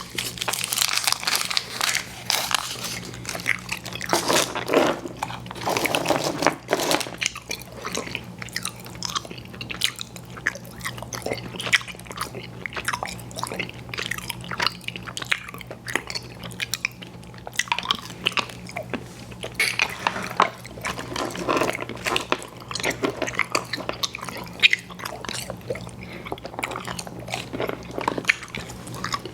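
Close-miked chewing of soft, chewy fruit candies (Airheads Bites and Tootsie Fruit Chews), with wet smacking and sticky clicking mouth sounds in irregular bursts, over a faint steady hum.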